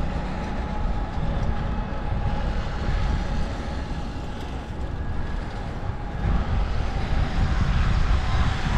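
Steady city street and traffic noise with a low rumble, heard from a moving bicycle, with a faint steady hum throughout.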